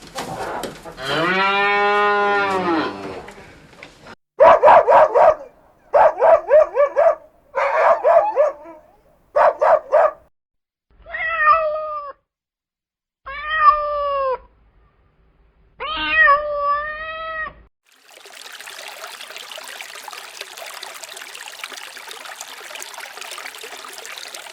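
A cat meowing three times, each meow rising and then falling in pitch, preceded by a long drawn-out call and four rough, pulsing cries. About 18 seconds in, the calls give way to a steady rushing noise.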